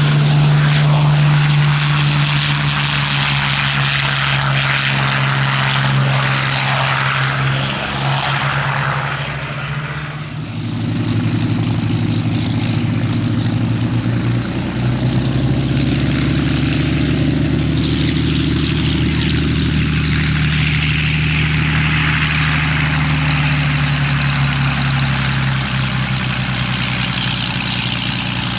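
Propeller warbird's piston engine running steadily at a loud level, its note shifting to a different pitch after a brief dip about ten seconds in.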